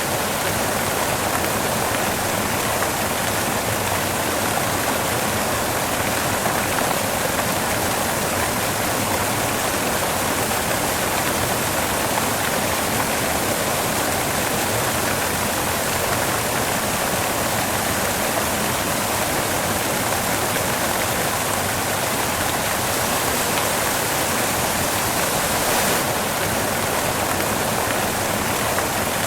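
Steady white noise: an even, unchanging hiss that sits mostly in the middle and upper range.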